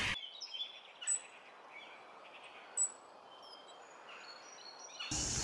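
Faint chirping of small birds over quiet outdoor background hiss, with two sharper high chirps about one second and three seconds in. A louder, fuller sound cuts in just before the end.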